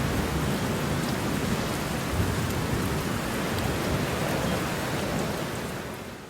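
Steady heavy rain, with a low rumble underneath, fading out near the end.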